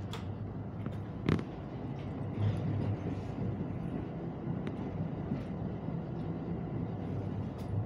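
Electric train running slowly, heard from inside the cab area: a steady low hum and rumble, with a few sharp clicks and knocks from the wheels on the track, the loudest about a second in.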